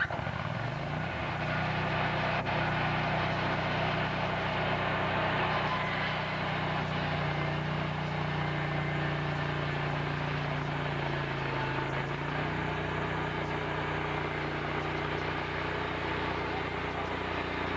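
An engine speeding up over the first second, then running steadily at a held speed, easing off slightly for a moment about eleven seconds in.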